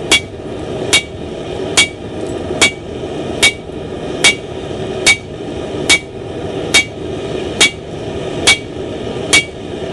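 Blacksmith's hand hammer striking hot steel on an anvil, forging out the bit of an axe head: twelve steady blows, a little under one a second, each with a short metallic ring.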